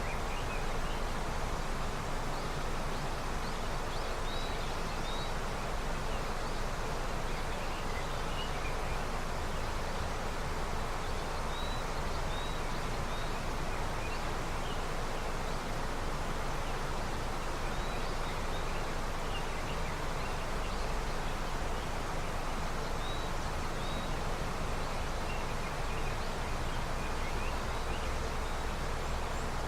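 Snowmelt river flowing with a steady rush of water. Faint short bird chirps come through now and then.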